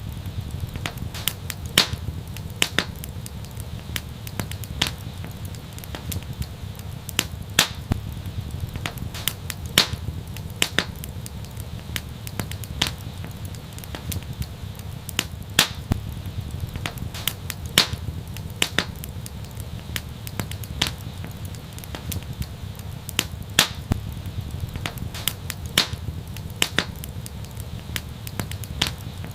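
Fireplace fire crackling: irregular sharp pops and snaps, several a second, over a steady low rumble of burning.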